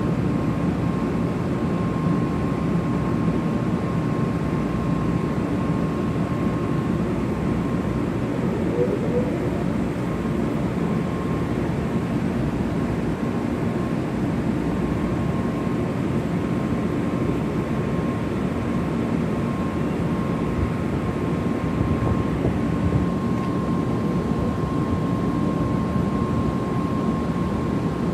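JR West 500 Series Shinkansen standing at the platform with its onboard equipment running: a steady whooshing hum with a thin, constant high tone over it.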